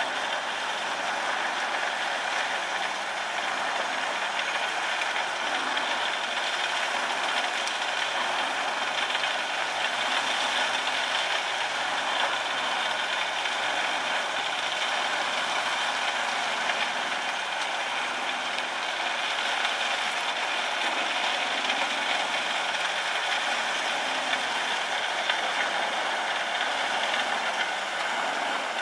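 A heavy machine's engine running steadily with a rattle, holding an even level throughout.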